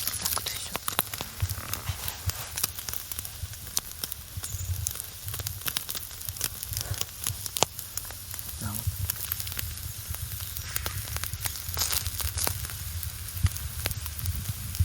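Larch-wood campfire crackling with many irregular pops, with chicken shashlik on skewers sizzling over it.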